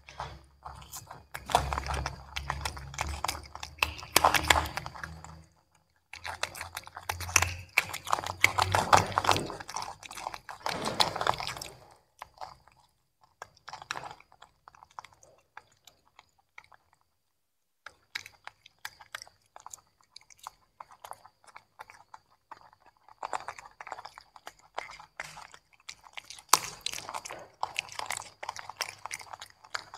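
Monkeys chewing and crunching broccoli and carrot: bursts of wet, crisp mouth clicks, broken by a quieter stretch of only scattered chews about halfway through.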